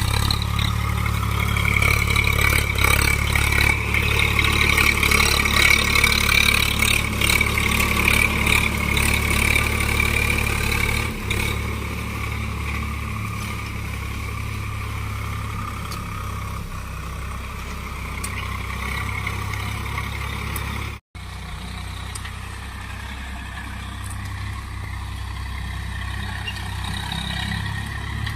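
Tractor engine running steadily, louder for the first ten seconds or so, then settling to a lower, even note. The sound cuts out for an instant about two-thirds of the way through.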